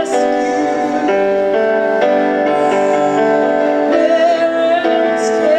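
Slow gospel music: sustained keyboard chords that change every second or so, with a singing voice holding a wavering note in the second half.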